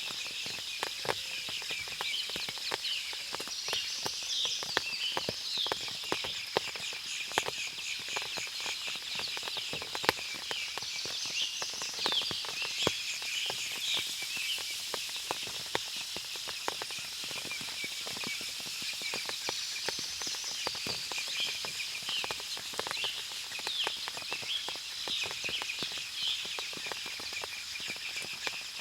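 Forest after heavy rain: water dripping from the trees in many small irregular drips, over a steady high chorus of insects and birds, with clusters of bird chirps every several seconds.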